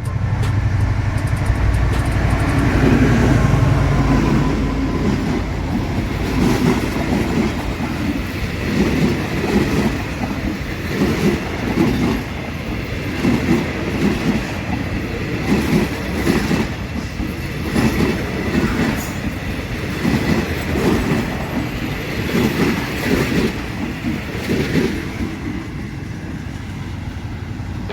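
A train passing: a heavy rumble for the first few seconds, then the cars' wheels clacking over the rail joints in a steady rhythm, about once a second.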